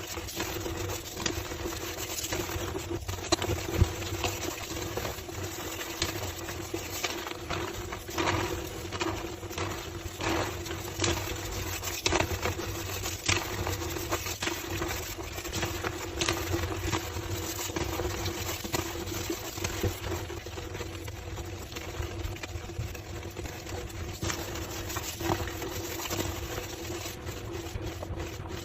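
Homemade gym chalk slabs being crushed and crumbled, a continuous run of dense crunching clicks and crackles with squeaky notes, over a steady low hum.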